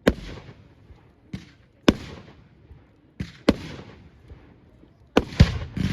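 Firework display: a run of sharp firework bangs at irregular intervals, each trailing off in a short rumbling echo, with a quick cluster of the loudest bangs near the end.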